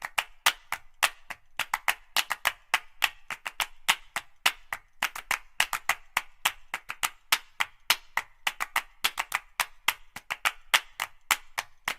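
Rapid, sharp, dry taps, about five or six a second in an uneven rhythm.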